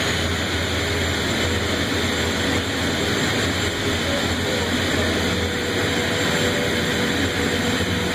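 Garrett F109 turbofan jet engine running steadily at full power, a loud, even rush of noise.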